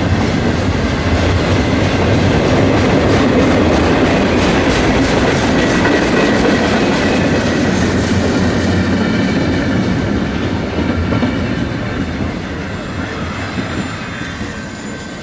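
A train rolling past at close range, its wheels clicking over the rail joints, with a faint high wheel squeal. The sound fades over the last few seconds as the train moves away.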